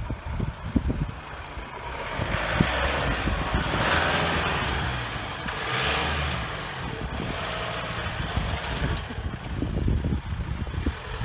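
Volkswagen Amarok pickup's engine running at low speed as it moves in, with a hiss that swells for a few seconds in the middle and then fades.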